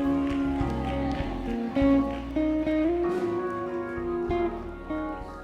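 Instrumental church music: sustained chords that change every second or so over a low bass line, with no singing.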